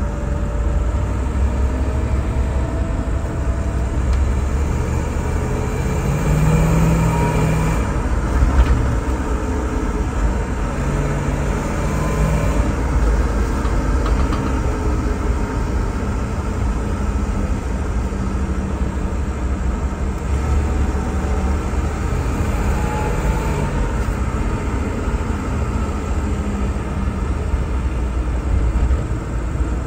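LS3 V8 engine of a swapped Range Rover Classic running on the move: a steady low rumble with faint tones that slowly rise and fall as the revs change.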